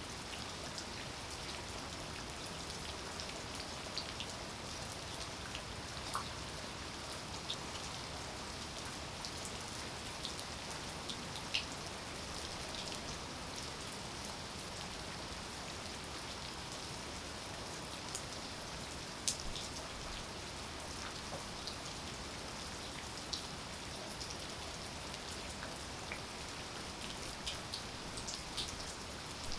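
Steady rainfall, an even hiss of rain with scattered individual drops ticking sharply on a hard surface.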